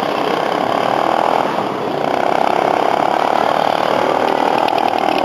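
Motorcycle engine running at steady revs, growing a little louder about two seconds in.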